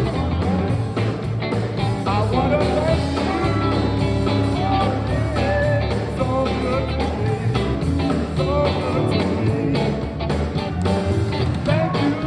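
Live sacred steel gospel band playing an instrumental passage: steel guitar with sliding, gliding notes over bass and a steady drum beat.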